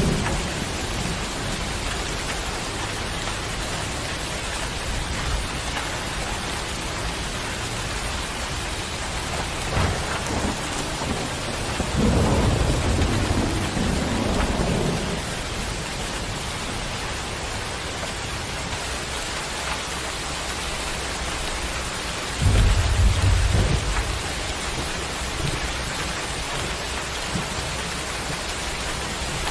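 Steady rain falling, with low rumbles of thunder: a long rumble about twelve seconds in and a shorter, louder one a little after twenty-two seconds.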